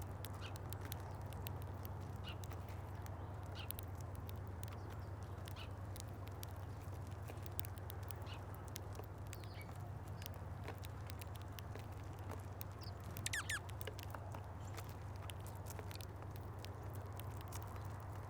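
Small birds feeding at a bird feeder: scattered light ticks and taps throughout, over a steady low hum. A brief burst of high, falling chirps comes about 13 seconds in.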